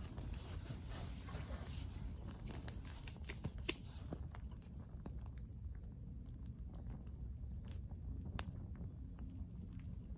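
Wood fire crackling in a fire-pit stand: irregular sharp pops and snaps over a steady low rumble, with a soft hiss in the first few seconds.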